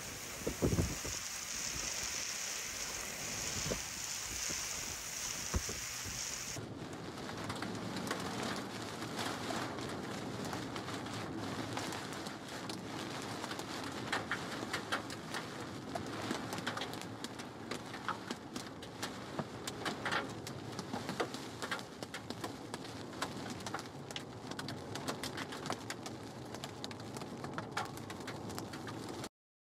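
Heavy wind-driven rain, with gusts buffeting the microphone. About six seconds in it changes to rain pelting a car's windshield and roof, heard from inside the car, with many sharp taps that come thickest in the middle; the sound cuts off just before the end.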